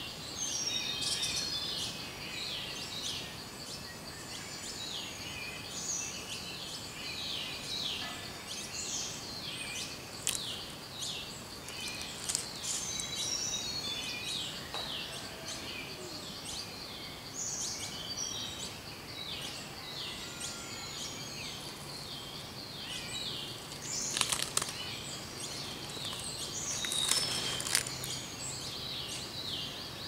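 Wild forest birds calling throughout with many short repeated chirps and whistled notes, over a steady high-pitched hum. A few soft clicks come in the last third.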